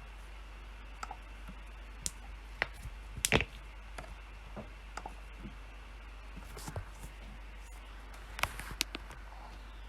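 Clicks from working at a PC, keyboard keystrokes and mouse button presses, sparse and irregular: single clicks and short clusters, the loudest about three seconds in and another cluster near the end, over a low steady hum.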